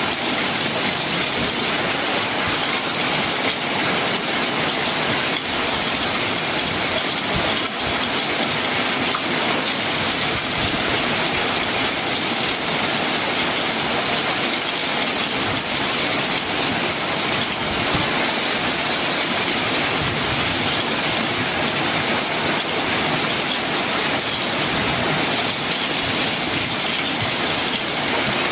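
Heavy rain falling on a corrugated metal roof, with water pouring off the roof edge: a steady, dense hiss that does not let up.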